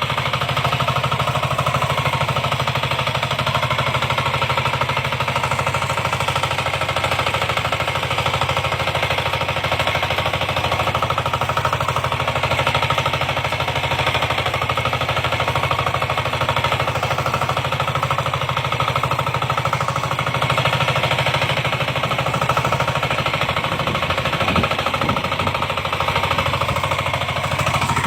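Tractor engine running steadily, with a rapid, even knocking beat.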